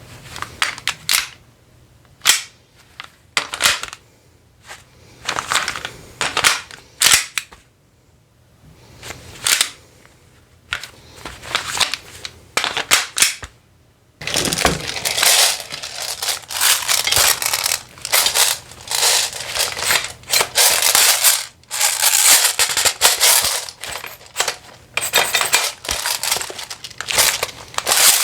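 Airsoft gun being handled and reloaded: sharp plastic and metal clicks and snaps, spaced about a second apart at first, then from about halfway a dense run of rapid clicks and rattles.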